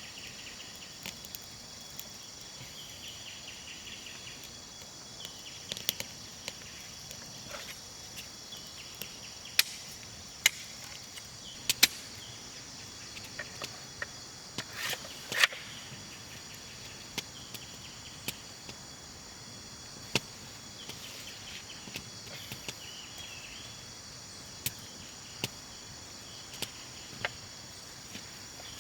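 A steady high-pitched chorus of crickets or similar insects, broken by scattered sharp snaps and knocks, the loudest a few clustered near the middle.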